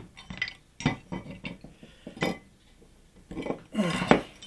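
Metal clinks and knocks of tools and door-hinge parts being picked up and set down on a hard surface, several separate strikes, with a short vocal sound near the end.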